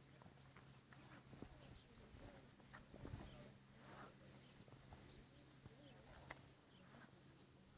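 Near-silent background with faint high chirping in short, rapid repeated pulses, like insects, over a low steady hum and a few soft clicks.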